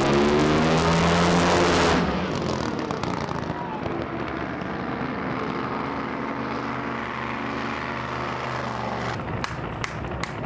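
Drag boat racing engine revving up and running loud for about two seconds, then carrying on more steadily at a lower level, with a few sharp pops near the end.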